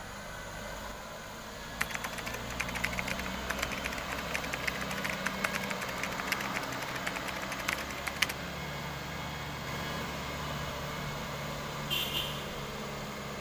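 Truck engine running steadily, with a run of rapid rattling clicks from about two seconds in to about eight seconds in. A brief high-pitched sound comes near the end.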